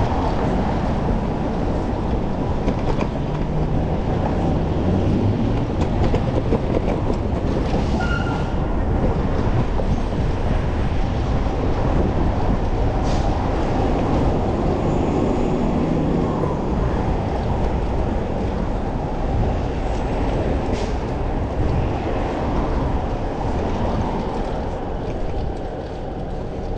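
Steady rush of riding wind and road noise from a moving bicycle, with motor traffic passing and its engine pitch rising and falling a few times.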